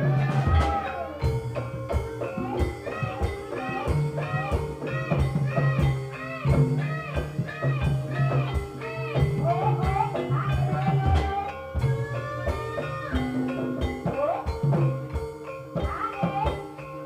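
Javanese gamelan music of the kind that accompanies an ebeg (kuda lumping) horse dance: a steady run of drum strokes, a few every second, under sustained low tones and a busy melody.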